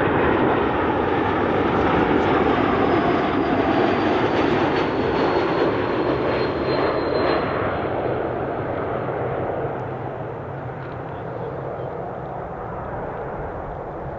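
Jet airliner's engines on landing, a loud steady rush with a faint high whine that slides slightly lower, then fading as the aircraft moves away.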